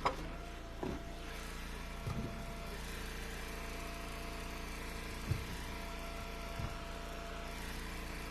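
Log splitter's gas engine running steadily at a constant speed, with a few short knocks of wood.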